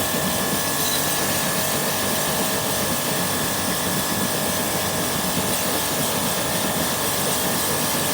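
A machine running steadily: an even hiss with a faint high whine held throughout.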